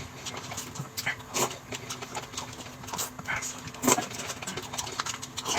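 Close-up eating mouth sounds: irregular wet smacks and clicks of chewing.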